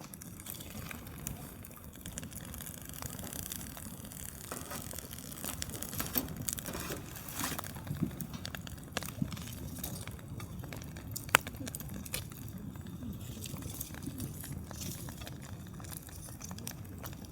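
Campfire crackling, with scattered pops and one sharp pop about eleven seconds in, over a low steady rumble of wind.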